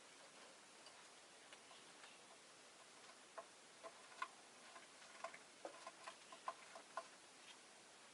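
Faint room tone with a run of small, irregularly spaced clicks and taps starting about three seconds in and lasting a few seconds, made by a peach-faced lovebird in its cage.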